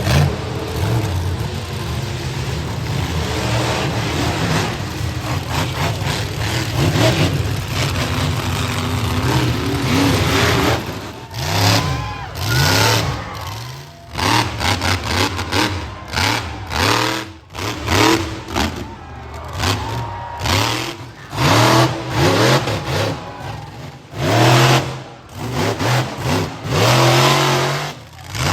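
Monster truck engine running hard, then revved in a string of short bursts that rise and fall in pitch, with brief lulls between them.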